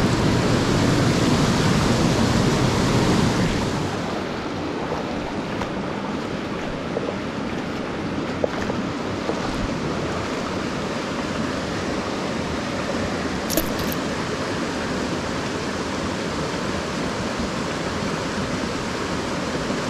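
Mountain headwater stream rushing steadily over rocks. About three and a half seconds in the rush becomes a little quieter, with less deep rumble.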